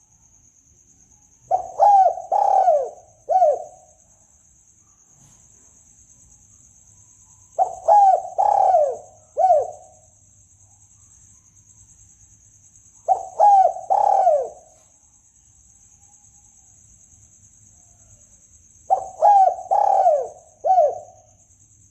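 Spotted dove cooing, the call used as a hunting lure. It gives four phrases of three or four notes each, spaced several seconds apart, over a faint steady high-pitched whine.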